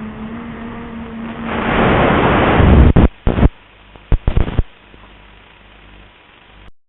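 Wind blasting the microphone: a rushing swell that builds about a second and a half in, then several abrupt gusts that cut in and out before it dies down.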